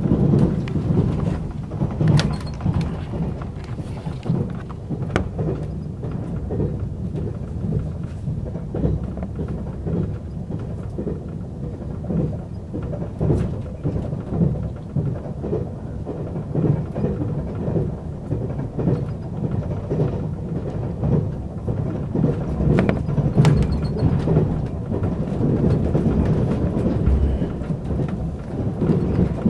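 Passenger train heard from inside the carriage at speed: a steady low rumble of wheels on the rails, with frequent small clicks and rattles.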